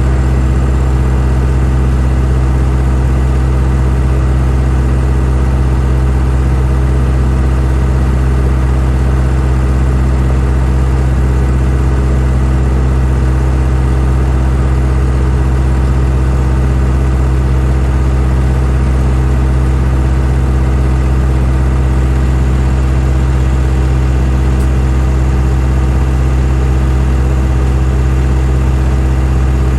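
Engine of heavy farm machinery at silage work running steadily at a constant speed, a deep, unchanging drone with no revving or pauses.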